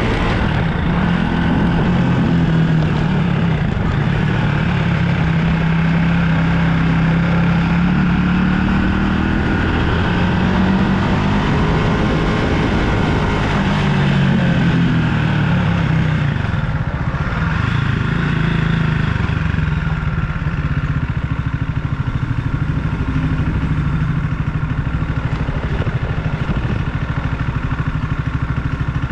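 Motorbike engine running while being ridden, its pitch rising and falling as it speeds up and eases off, then settling to a steadier, lower note about two-thirds of the way through.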